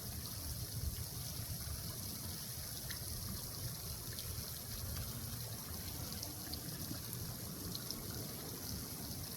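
Steady trickling of pond water, with a low rumble underneath.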